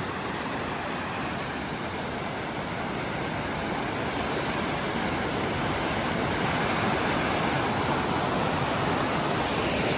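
Water rushing down a stepped waterfall cascade: a steady rush that grows a little louder towards the end.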